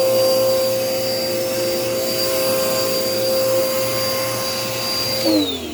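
Dirt Devil Power Max vacuum cleaner running with a steady motor whine, then winding down near the end as the motor stops and its pitch falls.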